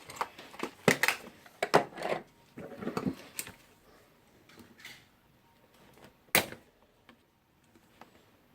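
Metal parts of a Bosch GDR 18-Li impact driver's hammer mechanism clicking and clattering as they are worked loose and handled: a run of knocks in the first few seconds and one sharper click about six seconds in.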